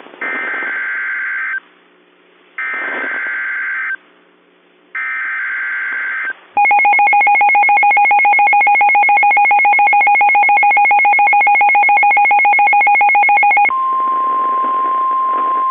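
Emergency Alert System signals: three short bursts of SAME header data tones, a harsh warbling squawk each, followed about six and a half seconds in by the loud two-tone EAS attention signal, which holds for about seven seconds with a rapid buzzing pulse. It then switches to a single steady tone over hiss, the weather radio alert tone.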